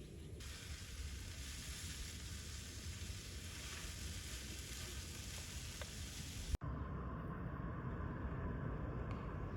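Food sizzling in a hot pan, an even hiss for about six seconds; then it cuts off suddenly and a steady low rumble takes over.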